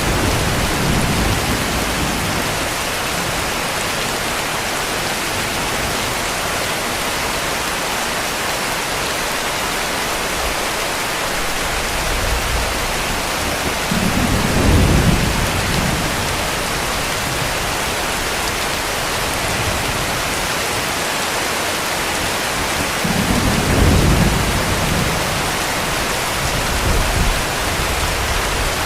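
Heavy steady rain with low rumbles of distant thunder, swelling at the start, about halfway through and again about three-quarters of the way in.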